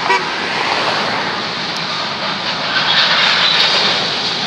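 Union Pacific mixed freight train rolling by: a loud, steady rush of steel wheels on rail, a little brighter and more hissing about three seconds in.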